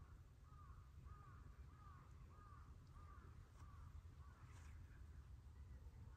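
Faint bird calling in a quick run of short, arched notes, about two or three a second, dying away about four seconds in, over a low steady outdoor rumble.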